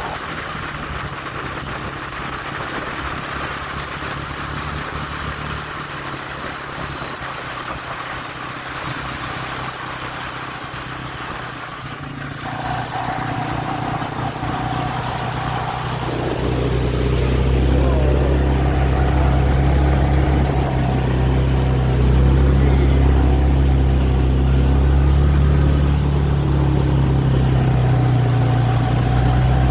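A vehicle engine running steadily at low revs. It gets louder and deeper a little past halfway through.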